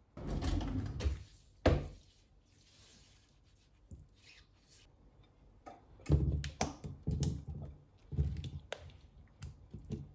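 A series of knocks and clunks from things being handled in a kitchen, with one sharp knock near two seconds in and a cluster of clunks in the second half.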